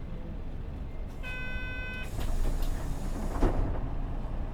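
Mitsubishi Fuso Aero Star bus (PJ-MP35JM) standing at a stop with its engine idling in a low steady rumble. About a second in a single electronic beep sounds for under a second, then a hiss of about a second and a half ends in a sharp knock.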